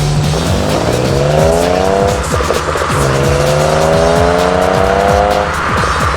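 Ford Mondeo ST220's 3.0 V6 through a stainless steel performance exhaust, accelerating hard with the pitch climbing. A brief break about two seconds in, like a gear change, is followed by a second climb, with music in the background.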